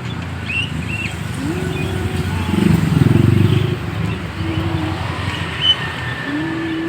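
Steady road traffic, with one vehicle passing loudly about three seconds in, its engine note falling as it goes by; a few short bird chirps sound over it.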